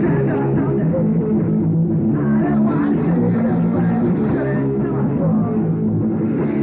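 Rock band playing live: loud, steady guitar-driven rock with a dull, muffled top end.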